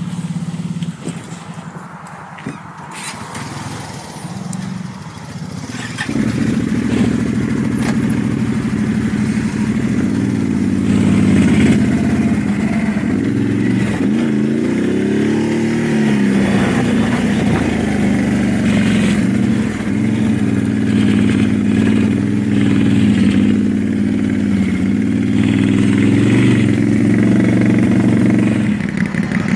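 ATV engine, quieter for the first few seconds, then running loud and steady from about six seconds in, its pitch rising and dipping slightly now and then.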